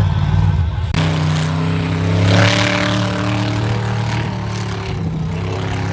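Monster truck engine running loud, revving up to a peak about two and a half seconds in, then holding a steady note.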